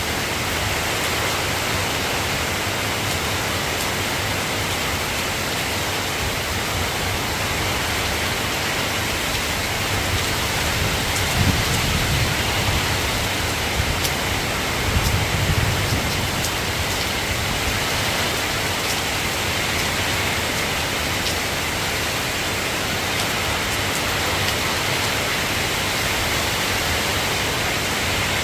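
Steady soft rain falling, an even hiss, with two brief low rumbles near the middle.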